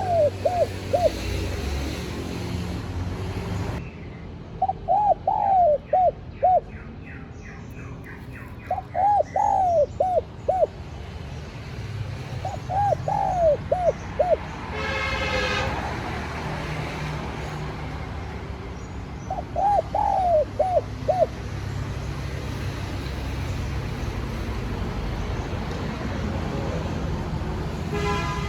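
Spotted dove cooing: a phrase of several short, hoarse notes repeated about every four seconds, five times, with a longer pause before the last. A steady low rumble runs underneath.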